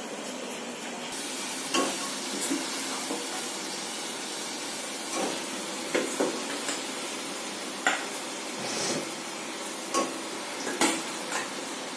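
Chicken curry frying in an open pressure cooker: a steady sizzle of hot oil and masala, with a steel spoon scraping and clinking against a steel bowl about half a dozen times.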